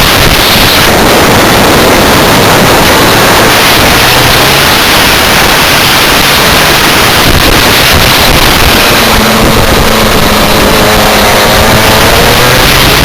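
Rotax Max 125 two-stroke kart engine running at speed, largely buried under heavy wind noise on the microphone. Its pitch climbs again in the last few seconds as it accelerates.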